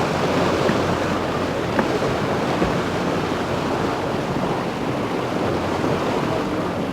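Steady rush of wind and water around a yacht under way, with wind buffeting the microphone.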